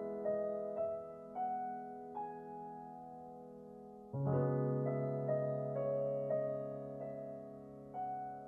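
Slow, gentle background piano music: held chords with single notes struck one after another above them, and a new chord struck about four seconds in.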